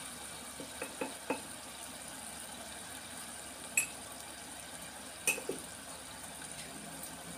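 Prawns frying in a black pot with a low, steady sizzle, while a metal spoon and fork clink lightly against the pot a few times. Two sharper ringing clinks come a little before halfway and about five seconds in, as chilli powder goes onto the prawns.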